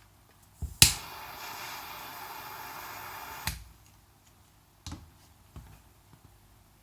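A lighter is clicked about a second in and its flame hisses steadily for about two and a half seconds, then cuts off suddenly with a small click, lighting a wax-soaked fire-starter briquette. Two light knocks follow.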